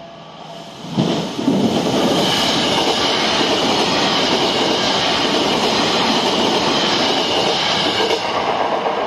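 Electric commuter train passing at speed, its wheels clattering over the rail joints. The rush starts suddenly about a second in, holds steady, and begins to fade near the end.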